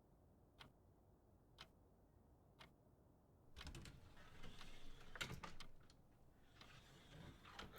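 A clock ticking softly about once a second. From about halfway in, a louder stretch of scuffling and clattering noise takes over.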